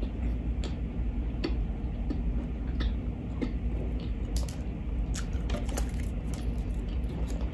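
Close-miked mouth sounds of eating a fried chicken sandwich: chewing with irregular wet clicks and smacks, about one or two a second, over a low steady hum.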